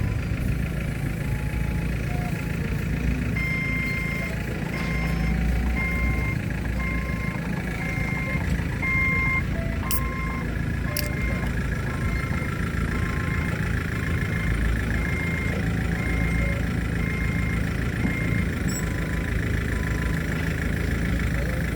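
Stand-up forklift's reversing alarm beeping in a steady run of evenly spaced beeps over the low hum of the truck running, starting a few seconds in and stopping near the end. A couple of brief clicks are heard in the middle.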